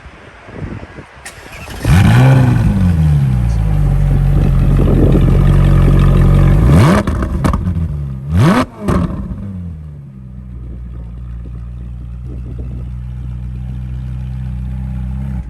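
Ferrari engine starting: a brief crank, then it catches with a rising flare and settles into a loud high idle. The throttle is blipped twice in quick succession about seven and eight and a half seconds in, and the engine then drops to a steadier, quieter idle.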